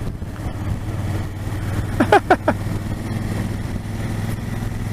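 Motorcycle engine running at a steady cruising speed, with a brief voice-like sound about two seconds in.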